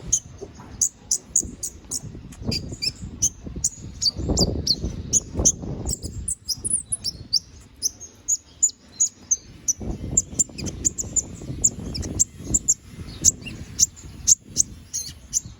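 Domestic canary singing a fast, continuous song of short, sharp high notes and trills, several notes a second. A low rumbling noise sits underneath at times.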